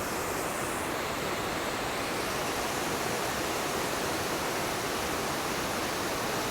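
Mountain creek rushing steadily over rocks, a constant roar of fast-flowing water.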